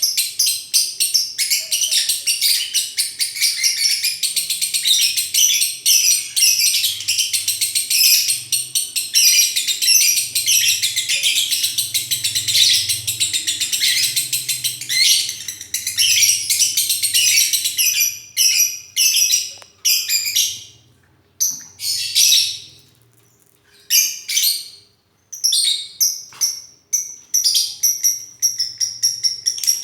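Lovebird chattering in a rapid, high-pitched stream of chirps, unbroken at first, then after about eighteen seconds coming in separate bursts with short pauses between.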